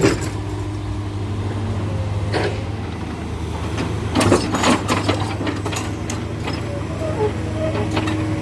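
Heavy diesel engine running steadily at low revs, with a few sharp metallic knocks and a cluster of clanks about four to five seconds in.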